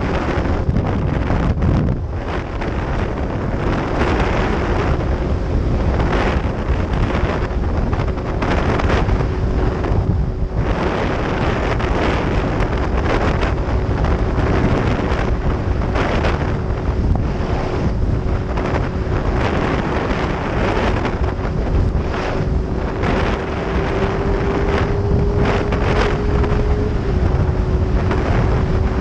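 Wind buffeting the microphone on a moving motorcycle, with the engine's steady drone underneath; the engine note creeps up slowly and drops a step near the end.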